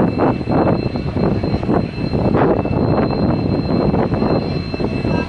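A passenger train running at speed, heard from on board: a loud, steady rush of wheel and track noise and wind, swelling and easing every second or so.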